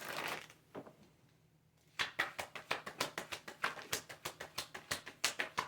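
Tarot cards being shuffled by hand: a brief rustle, then from about two seconds in a quick run of light card clicks and slaps, several a second.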